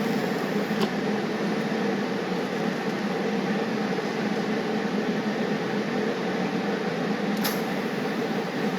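Steady whirring hiss of shop machinery running at an even level, with a low hum and a couple of faint clicks, about a second in and near the end.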